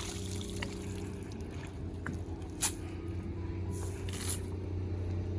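Water dripping and splashing over a steady low engine hum. There is a sharp splash about two and a half seconds in and a brief hiss near the end.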